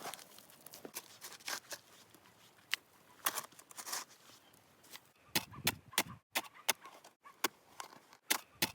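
Crunching and clicking in snow, scattered at first, then a quicker, fairly regular run of sharp crunches at about three a second from a little past halfway.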